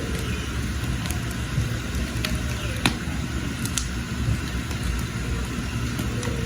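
Wood fire burning under a pot of water, a steady low rush of flames with scattered sharp crackles and pops, the loudest pop about three seconds in.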